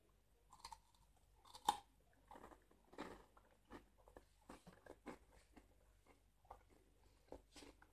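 Faint crunching of a person biting into and chewing a sesame snack bar, in irregular crunches with the sharpest bite about a second and a half in.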